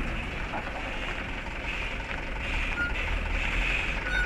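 Truck engine running steadily with a low rumble, and two short high beeps near the end.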